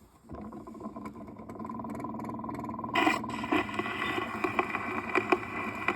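Old 1920s record starting to play: surface hiss and scattered crackle, then the music's instrumental introduction comes in about three seconds in.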